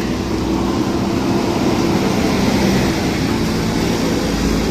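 Engine of heavy earth-moving machinery running steadily under load, with a low, even drone.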